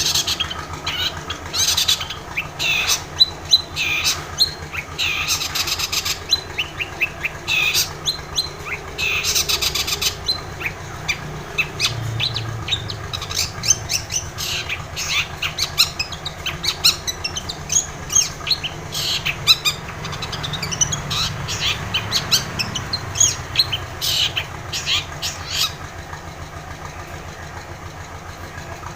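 Long-tailed shrike (cendet) singing a rapid, chattering run of short sharp chirps and trills, which stops near the end. A steady low hum runs underneath and continues alone after the song stops.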